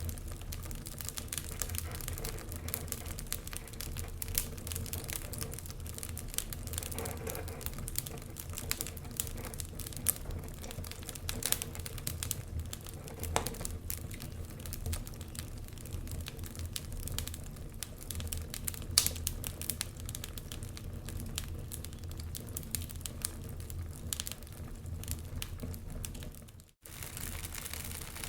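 Logs burning in a fireplace: wood crackling with frequent irregular small pops over a low steady rumble. The sound cuts out for a split second near the end.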